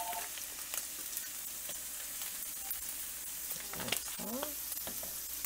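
Ground beef, onion and garlic sizzling steadily in hot oil in a frying pan, with occasional light clicks of a wooden spoon against the pan.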